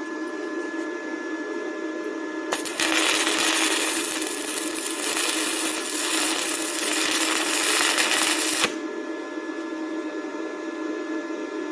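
Stick-welding arc from a 6013 rod at 32 amps crackling and hissing. It strikes about two and a half seconds in, burns for about six seconds and stops abruptly, over a steady hum.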